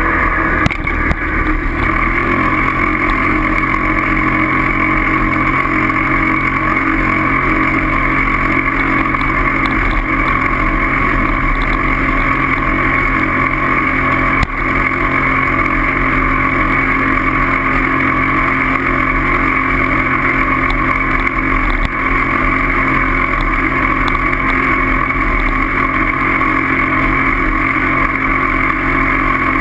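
A motor running steadily at a constant speed, with rushing noise over it, as heard while riding along.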